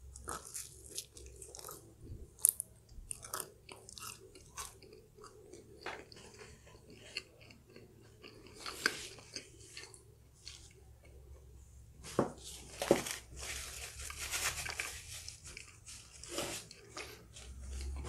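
A person biting and chewing food close to the microphone, with short sharp crackling bites every so often; the strongest come about 9 seconds in and again around 12 to 13 seconds.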